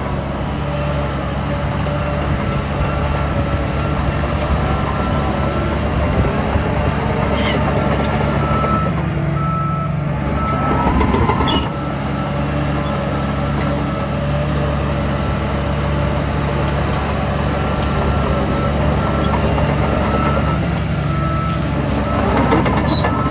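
Heavy diesel engines of a bulldozer and dump trucks running steadily, with a reversing alarm beeping on and off. About ten seconds in, an engine revs up briefly.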